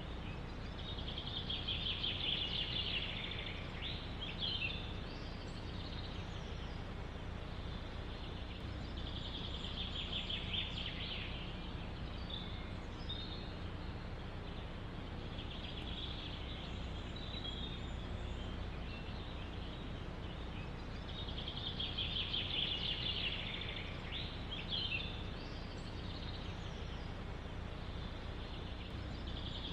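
A songbird repeating a short, fast trilled song about every six or seven seconds, over a steady low rush of wind in a forest.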